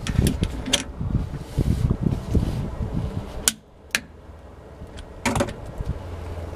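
Irregular knocks and rustling of things being handled, with several sharp clicks. About halfway through the sound cuts to a quieter steady low hum, broken by a few more clicks.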